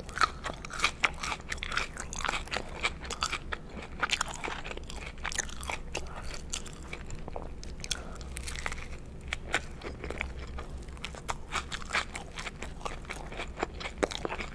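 Close-miked chewing and biting, first of a McDonald's french fry and then of a burger: a dense run of short, sharp mouth clicks that never stops for long.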